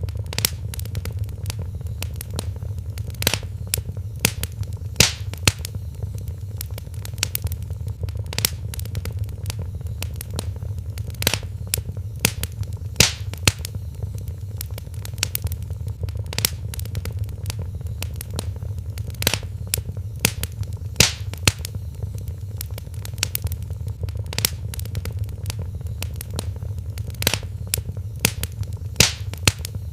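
Wood fire crackling, with frequent irregular sharp pops, some much louder than the rest, over a steady low rumble.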